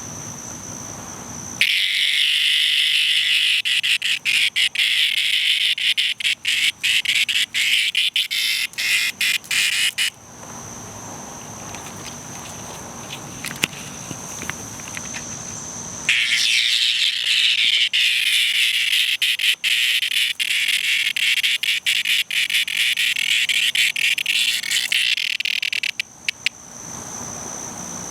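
Cicada distress call: a loud, harsh buzz in two long bouts of about eight to ten seconds each, breaking into stuttering gaps toward the end of each bout.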